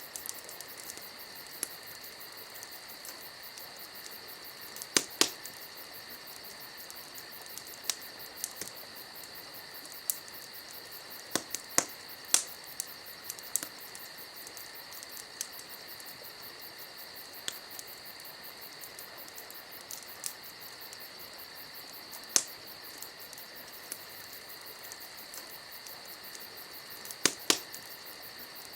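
A campfire crackling, with scattered sharp pops, a handful of them louder than the rest, over the steady chirping of crickets.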